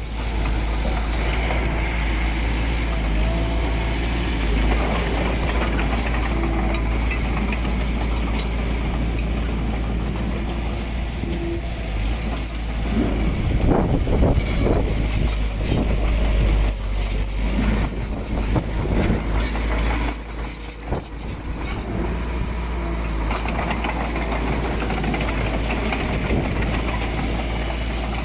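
Heavy diesel earthmoving machinery engine running steadily with a deep rumble. It gets louder for a few seconds in the middle, and a run of metallic knocks and rattles follows.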